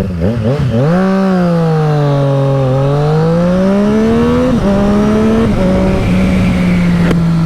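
2020 Triumph Street Triple RS's 765 cc inline-three running through a LeoVince LV One EVO slip-on exhaust, heard from the moving bike. The revs dip and pick up again right at the start, ease off, then climb until they drop sharply about four and a half seconds in, after which the engine holds a steady note.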